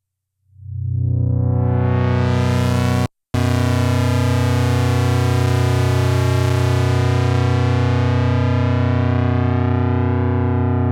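Sequential analog synthesizer holding a low sustained note: it fades in and brightens as the filter opens over about two seconds, cuts out for an instant a little after three seconds in, then holds steady with the top end slowly darkening.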